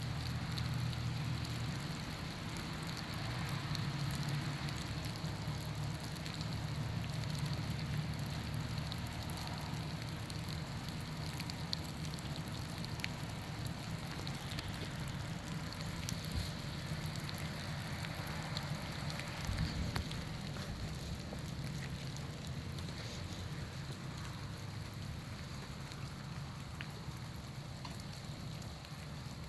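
Steady patter of rain falling on ice-coated trees and ground, with scattered small ticks over a low rumble. A brief low thump comes about twenty seconds in.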